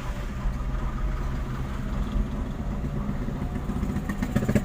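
Motor vehicle engine running at low revs, a steady low hum, in slow traffic. Near the end a rapid ticking rattle begins.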